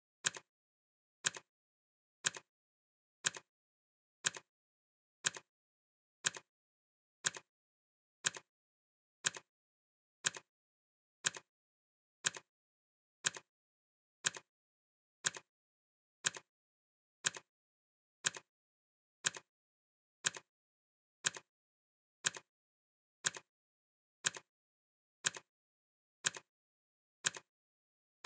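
Clock ticking sound effect: a crisp, sharp tick once a second, steady and even, counting down the timer.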